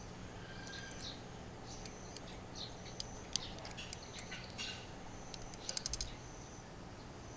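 Scattered light clicks and clatters, with a quick run of five or six clicks about six seconds in, over a short high chirp that repeats roughly once a second.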